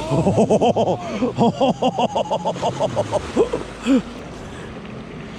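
A person's voice in a quick run of short rising-and-falling bursts, about five a second, stopping about four seconds in. A faint steady background hum is left after it.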